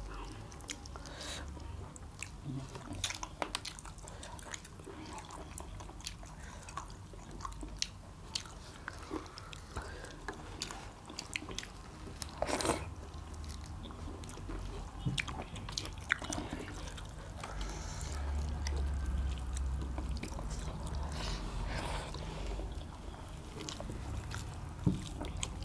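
Close-miked chewing and biting of roast and curried quail with rice, eaten bones and all: wet mouth sounds with many scattered short clicks and crunches.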